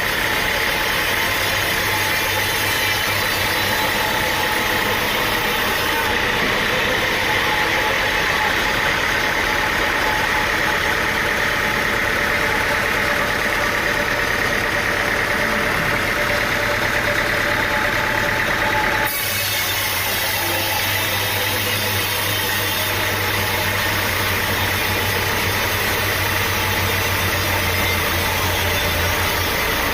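A motor running steadily, with a dense mechanical noise; the sound changes abruptly about two-thirds of the way through.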